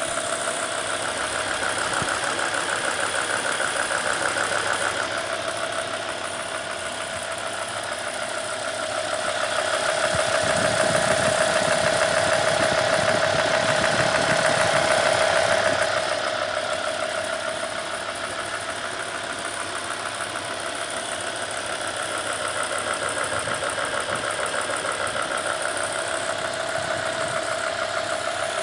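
BMW E60 M5's S85 V10 engine idling, with a fast ticking from the VANOS area at the front of the engine, louder on the passenger bank, on top of the usual injector tick. The sound grows louder for several seconds midway. The owner does not know its cause.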